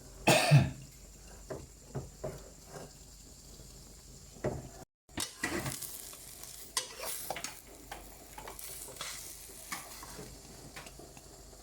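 Egg omelette frying in a pan with a light sizzle, a spatula scraping and knocking against the pan, loudest in a scrape just after the start.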